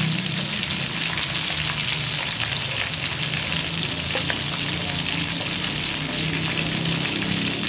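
Pieces of black-skinned chicken frying in oil in a steel wok: a steady sizzling hiss with fine crackles.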